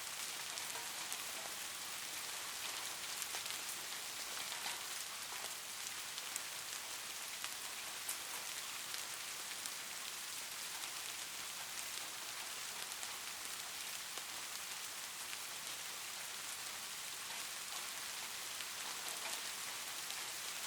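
Steady rain falling on a surface: an even hiss with single drops ticking sharply here and there.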